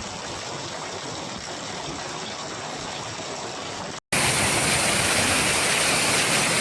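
Heavy rain pouring down in a steady rushing hiss; about four seconds in, it cuts abruptly to a louder, brighter downpour.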